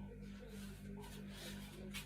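Faint rustling and handling noise over a steady low electrical hum.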